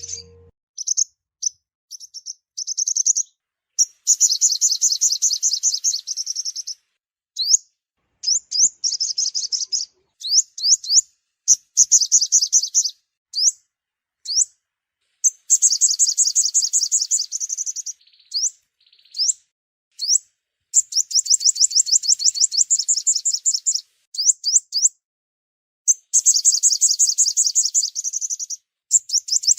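Sunbird song: bursts of rapid, high trills lasting two to three seconds, alternating with single sweeping chirps and short silent gaps, repeating throughout.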